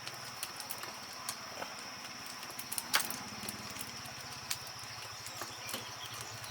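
Steady high insect drone, with scattered light clicks and taps and one sharper knock about three seconds in.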